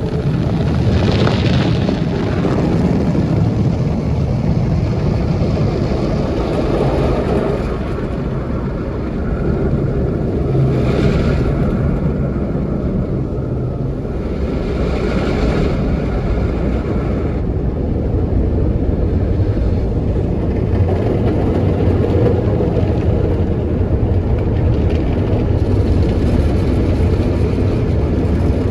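An automatic car wash working over the car, heard from inside the cabin: a steady low rumble of water and machinery, with hissing swells of spray a few times.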